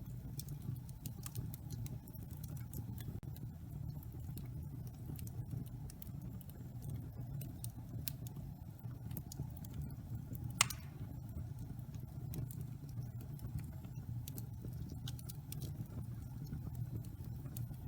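Wood fire burning in a fireplace: a steady low rumble of the flames with scattered small crackles. One louder pop comes about ten and a half seconds in.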